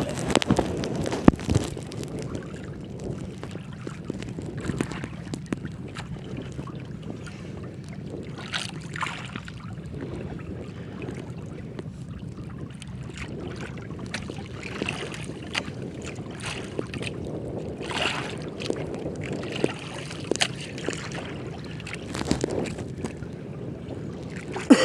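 Wind buffeting the microphone over water slapping against a small boat's hull, with a few knocks scattered through.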